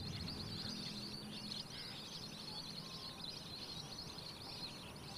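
Many small birds chirping and chattering at once, with their high calls overlapping continuously.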